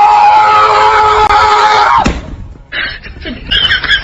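A loud, long, high-pitched scream held at one pitch, which drops sharply and breaks off about two seconds in. Quieter, choppy chattering voices follow.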